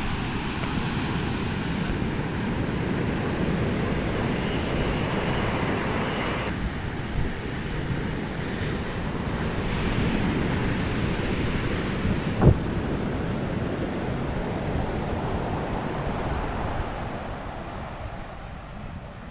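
Large ocean waves breaking on a beach, with wind buffeting the microphone. A single sharp knock about twelve seconds in, and the sound eases a little near the end.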